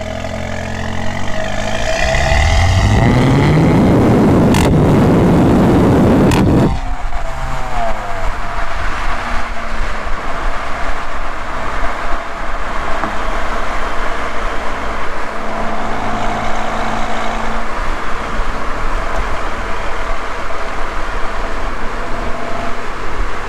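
Audi A3 quattro's turbocharged 2.0-litre four-cylinder with an aftermarket downpipe and resonator delete, accelerating hard with a raspy exhaust note rising in pitch for about five seconds, with one sharp crack partway through. It then lifts off abruptly, and the exhaust runs on with uneven crackling under road noise.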